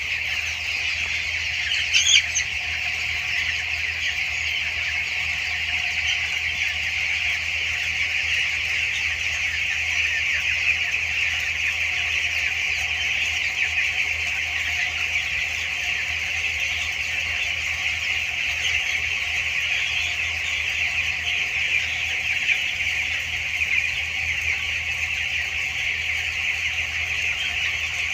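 A large flock of two-week-old broiler chicks peeping together, a dense, steady wall of high chirps, over a steady low hum. One louder squawk stands out about two seconds in.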